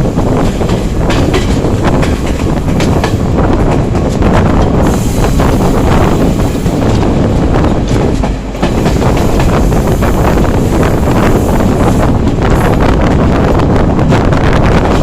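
Moving train heard from aboard: a steady loud rumble with rapid wheel clatter over rail joints and points.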